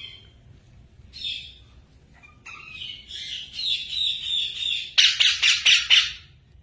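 Pet parrot calling: two short chirps, then a longer chattering call, and about five seconds in a burst of loud, harsh squawks in quick pulses.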